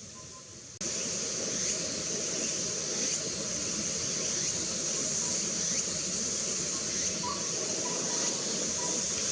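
A steady hiss that jumps up suddenly about a second in, with a few faint short whistled notes from a collared owlet in the second half.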